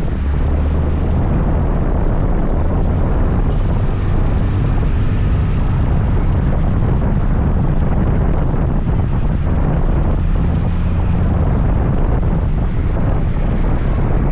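Riding a scooter: steady wind rush and rumble on the microphone over the scooter's engine running at a constant pace.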